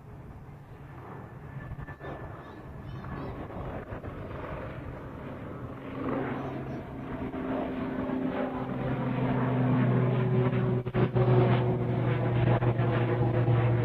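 Airbus A380 jet engines growing steadily louder, with a broad rushing noise and steady low humming tones that come in about halfway through and strengthen.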